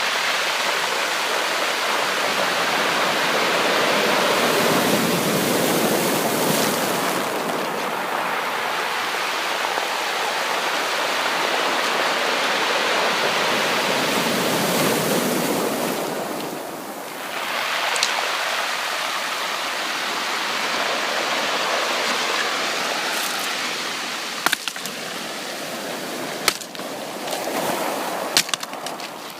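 Sea waves washing in as a continuous rush of surf, swelling louder twice and easing off between. Near the end it quietens and a few sharp clicks sound.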